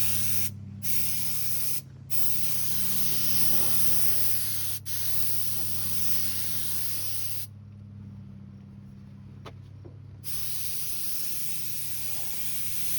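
Inexpensive air paint spray gun hissing as it sprays a light coat of paint, its air and paint turned down low. The trigger is let off for short moments a few times, then for about two and a half seconds past the middle, before the spraying hiss starts again.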